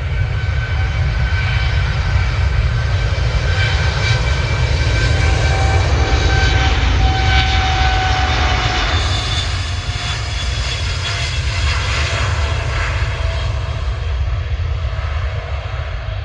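Aircraft engines running loud as a plane passes, a heavy low rumble under a steady roar with whining tones that slide slightly lower midway through and ease off near the end.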